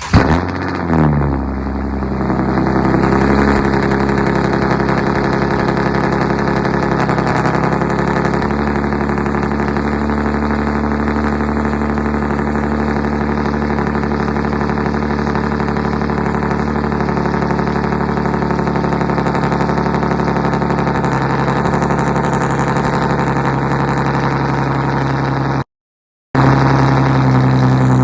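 Nissan 370Z's 3.7-litre V6 idling steadily through a straight-piped single-exit exhaust with no muffler or catalytic converters, after a brief blip and settle about a second in. The sound cuts out completely for about half a second near the end.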